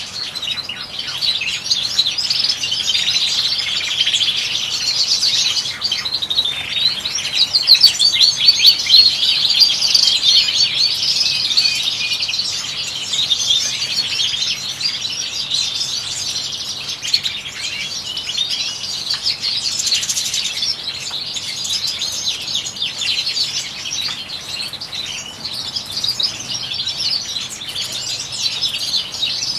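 Several European goldfinches singing and twittering in a dense, continuous chatter of rapid high notes, loudest about eight seconds in.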